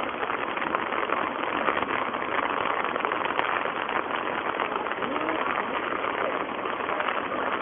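Heavy rain falling on a lotus-covered pond: a dense, steady hiss of drops striking the broad leaves and the water.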